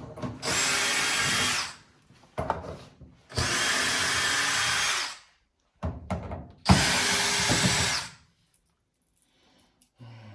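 Power drill-driver running in three bursts of about a second and a half each, taking screws out of the dryer's cabinet, with light clatter between the bursts.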